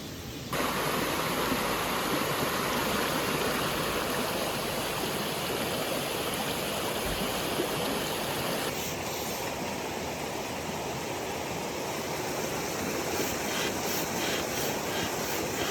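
Steady rush of flowing water in a mountain valley stream, stepping up in level about half a second in.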